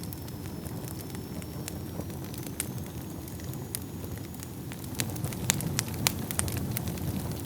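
Wood fire burning in a fireplace: a steady low rumble of flames with sharp crackles and pops scattered throughout, the pops coming more often and louder in the second half.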